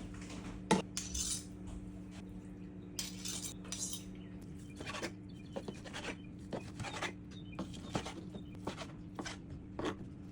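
A knife cutting raw chicken breast into small pieces, with irregular sharp taps and clinks of the knife against the cutting board and dish. A steady low hum runs underneath.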